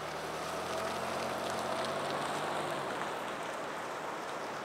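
A vehicle engine running with a steady low hum under an even hiss. The hum fades out about three seconds in, leaving the hiss.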